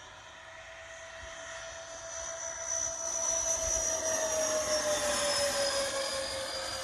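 Electric ducted fan of an RC MiG-29 model jet on a high-speed pass: a whine with a rush of air that grows louder as it approaches, then drops in pitch as it goes by, about four to six seconds in.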